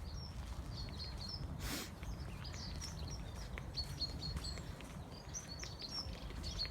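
Small birds chirping, with many short high calls repeated throughout, over a low steady rumble. A brief whoosh comes just under two seconds in.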